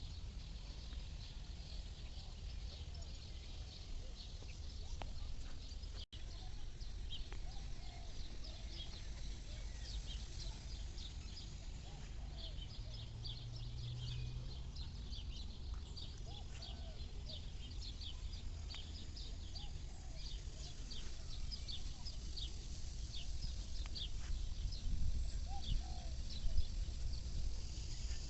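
Birds chirping: many short, high calls repeating irregularly, growing busier after about ten seconds, over a steady low rumble.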